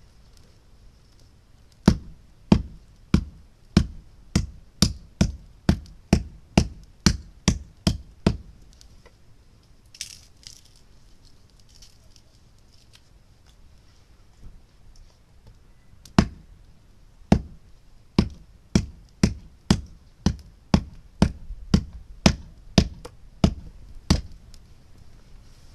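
Two runs of sharp, evenly spaced knocks, about one and a half a second, each dying away quickly; the first run starts about two seconds in and stops after about six seconds, and the second starts about sixteen seconds in.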